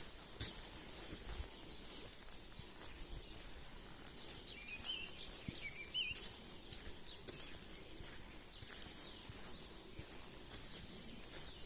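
Songbirds chirping over a faint steady outdoor hiss, a short run of quick rising and falling chirps about halfway through, with scattered faint ticks.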